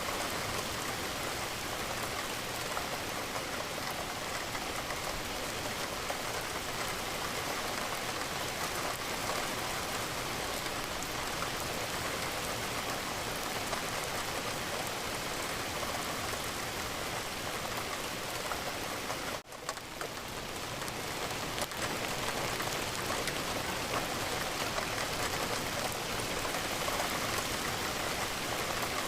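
Steady rain pattering against a window, a dense, even hiss of drops. About two-thirds of the way through it briefly drops out and swells back in.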